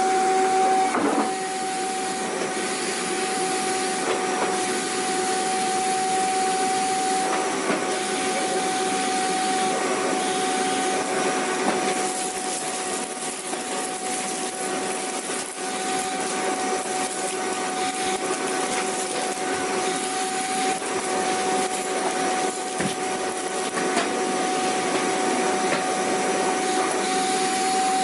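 Vacuum cleaner running steadily: a continuous rush of air over a steady motor whine, with now and then a faint knock.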